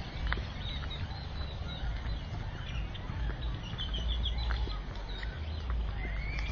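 Small birds chirping, with a quick run of trilled notes about three and a half seconds in, over a steady low rumble on the microphone.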